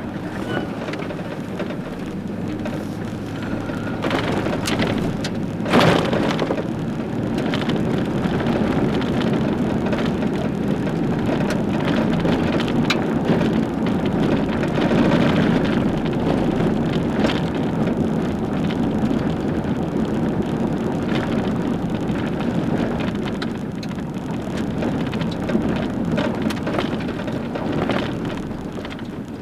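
Delivery truck's engine running steadily, with scattered knocks and rattles and one loud bang about six seconds in.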